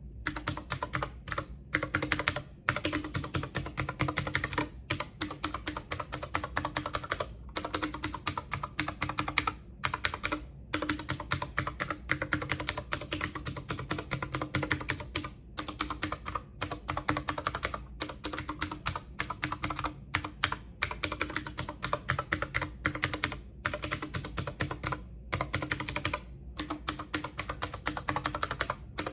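Typing on a computer keyboard: rapid, continuous keystroke clicks with a few short pauses.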